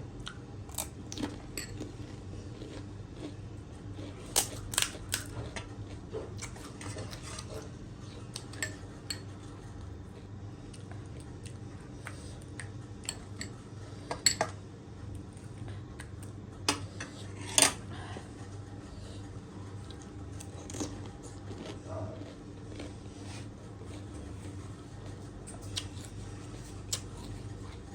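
Scattered sharp clinks and clicks of a spoon and dishes while pani puri and chatpate are eaten, a few of them much louder, over a steady low hum.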